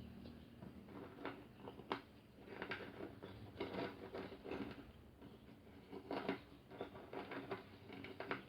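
Chewing and crunching of fried food: French fries and fried siomai bitten and chewed in irregular clusters of crackly clicks, with one sharp click about two seconds in.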